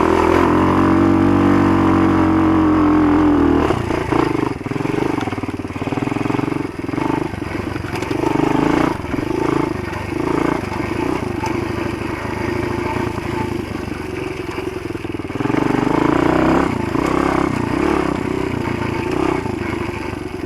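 Motoland GF125 pit bike's single-cylinder engine under way: held at high revs for the first few seconds, dropping off about four seconds in, then rising and falling again and again with the throttle.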